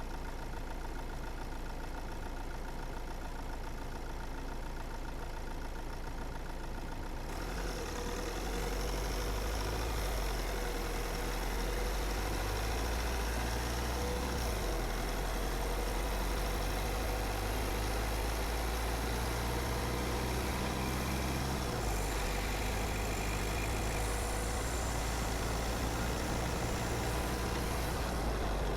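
A car's engine and tyres running steadily along the road. About seven seconds in, the road noise grows louder and hissier.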